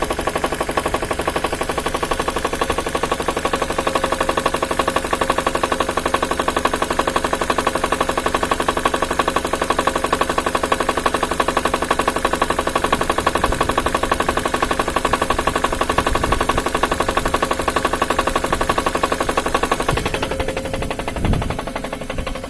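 Vehicle engine running with a rapid, steady knocking in time with its rotation, the knock the engine is being recorded for. A little before the end the sound changes and becomes somewhat quieter.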